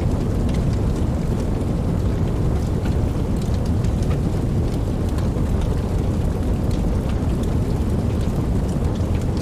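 Steady rain falling, with a deep continuous rumble underneath and scattered faint drop ticks on top.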